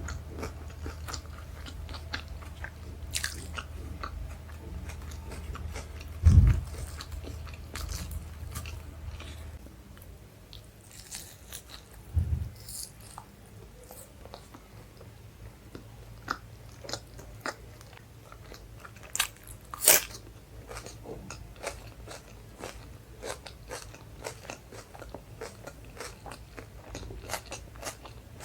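Close-miked mouth sounds of a person eating chole bhature and rice: chewing and biting with many small wet clicks. Two dull thumps come about six seconds apart early on, and a sharp, louder click follows later.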